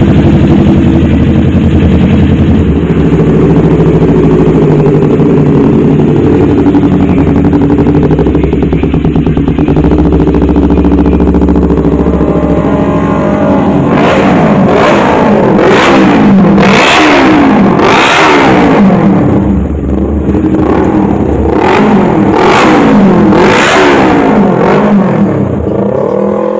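Kawasaki Ninja 250 with an aftermarket racing exhaust, engine running loud and steady, then from about halfway revved again and again, the pitch rising and falling with each throttle blip.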